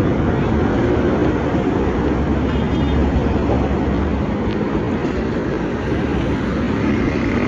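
Steady low rumble of motor-vehicle noise, engine and road sound.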